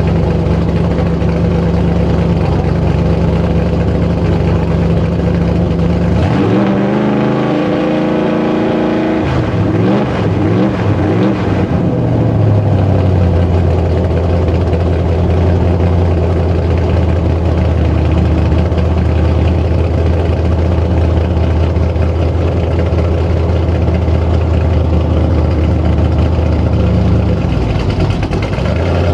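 Truck engines running hard under load in a tug-a-truck pull. The revs swing up and down for several seconds, then hold high and steady, and dip briefly near the end.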